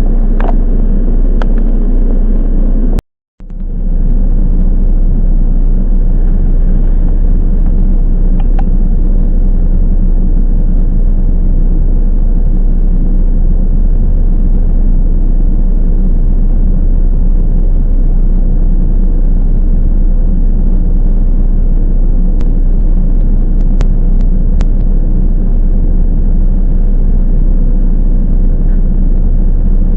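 Steady loud rumble of a Toyama Chiho Railway 10030-series electric train running, heard from inside the car, with a few light clicks. The sound cuts out briefly about three seconds in.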